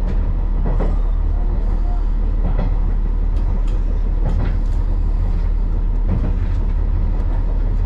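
Amagi Railway AR300-series single diesel railcar running along the line: a steady low running drone with irregular sharp clicks of the wheels over rail joints.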